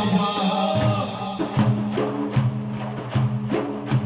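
Music for a chanted lament: a sung phrase trails off about a second in, then hand-drum percussion keeps a steady rhythm of strikes over a held low note.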